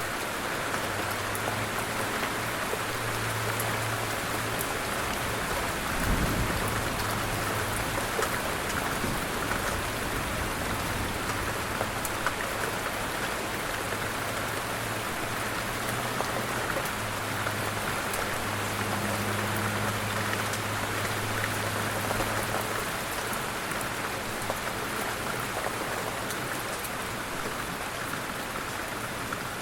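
Light rain falling steadily, a soft hiss with scattered ticks of individual drops. A single low thump comes about six seconds in, and a faint low hum comes and goes beneath the rain.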